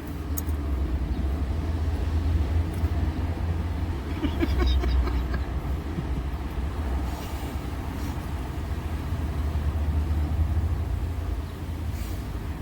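Steady low rumble, with a few faint clicks and a brief higher-pitched sound about four to five seconds in.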